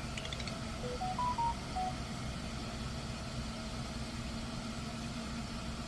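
2008 Hyundai Genesis BH engine idling steadily after a remote start. About a second in, a short run of electronic beeps at different pitches, like a little melody, plays over it.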